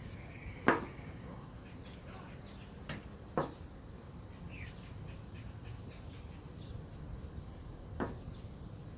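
Small handling knocks and taps, four of them with the first the loudest, over faint scratchy rustling, as alcohol ink bottles and an applicator are handled and dabbed on a 3D-printed piece.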